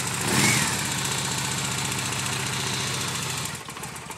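Victory Jackpot motorcycle's V-twin engine idling steadily, with a brief louder swell about half a second in; the engine sound drops away about three and a half seconds in.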